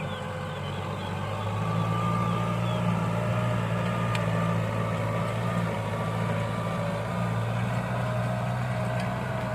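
Tractor engine running steadily, growing louder about a second and a half in.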